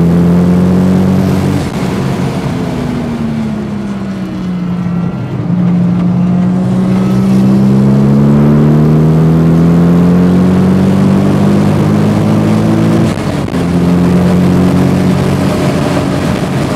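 Toyota Supra running on basic performance upgrades, its engine heard from inside the cabin while driven hard. The revs drop about two seconds in and sag for a few seconds, then climb steadily for about seven seconds. They fall sharply at an upshift and rise again after it.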